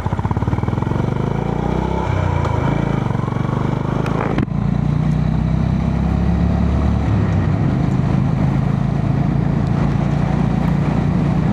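Honda GB350S single-cylinder motorcycle engine running under way, heard from the rider's helmet over road and wind noise. The engine note shifts about two to three seconds in, dips briefly about four seconds in, and then holds steady.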